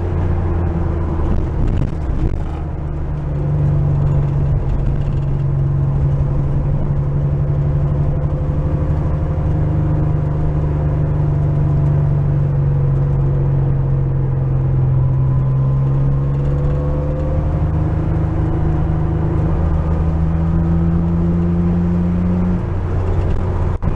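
Porsche 911 flat-six engine pulling the car along at a steady drone, its note climbing slowly. Near the end the note drops away, as when the throttle is lifted or a gear is changed.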